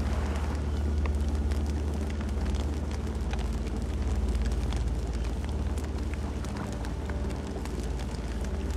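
Campfire burning: a steady low rumble of the flames with scattered sharp crackles and pops throughout.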